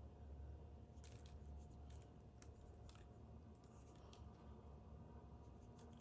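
Near silence: faint room hum with a few soft, scattered clicks.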